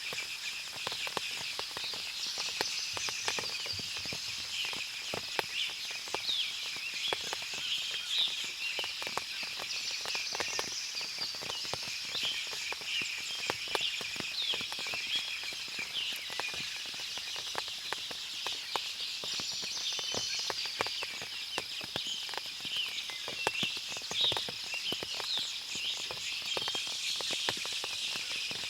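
Forest ambience after rain: many birds chirping, water dripping and ticking from the trees, and a steady high hiss underneath.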